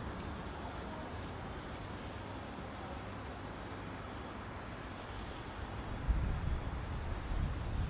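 ED9M electric multiple unit rumbling on the track, heard through steady blizzard wind noise; the low rumble grows louder about six seconds in.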